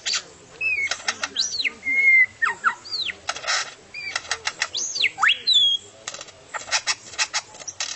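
A bird of unidentified species singing a varied song: whistled notes that slide up and down, mixed with quick runs of sharp clicks.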